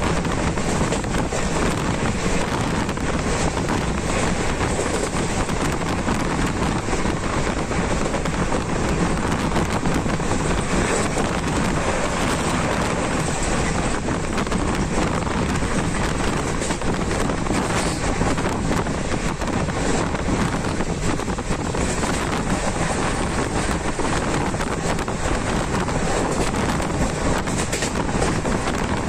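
A passenger train running steadily at speed: an unbroken rumble of the train on the track mixed with rushing wind on the microphone.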